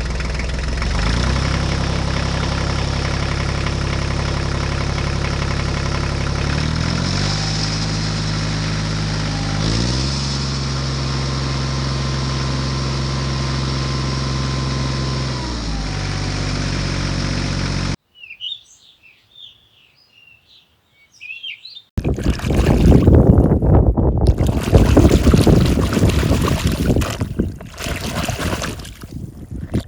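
An engine runs steadily, its pitch stepping up and down a few times, then cuts off suddenly about two-thirds of the way in. A few seconds of quiet with faint bird chirps follow. Then comes loud, uneven water splashing, as from spraying a toy tractor during a wash.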